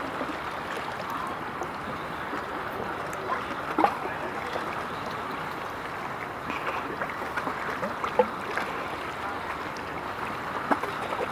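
Steady outdoor rushing of water and wind, with a few short sharp clicks scattered through.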